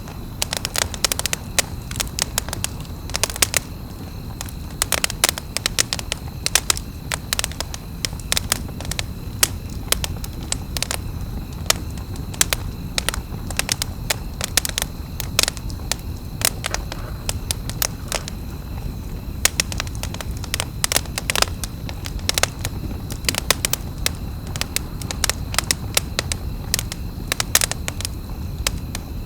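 Wood campfire crackling: frequent irregular sharp snaps and pops over a steady low background noise.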